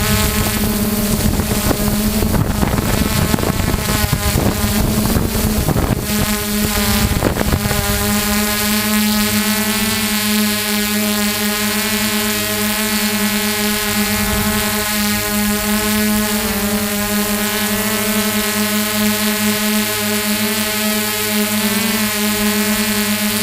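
Quadcopter drone's propellers and motors humming steadily at an even pitch. Wind buffets the microphone for the first several seconds.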